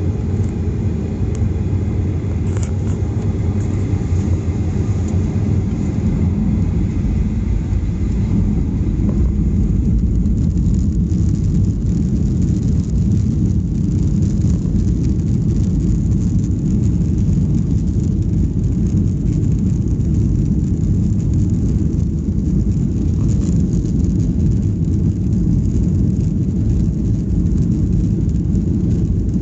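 Boeing 737-800's CFM56 jet engines and airframe heard from inside the passenger cabin: a loud, steady rumble that builds over the first ten seconds or so and then holds.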